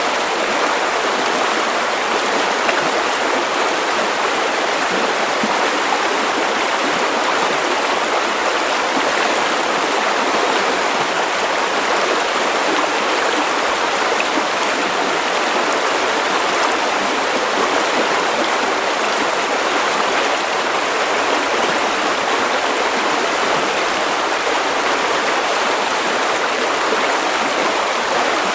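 River water running over stones, a steady rushing burble with no breaks.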